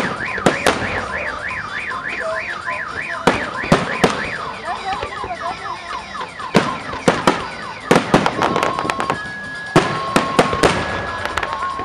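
Fireworks shells bursting overhead in loud, irregular bangs. Under them a car alarm sounds: a fast up-and-down warble that changes to quicker falling chirps about four seconds in, and then, from about eight seconds, to alternating steady two-tone beeps.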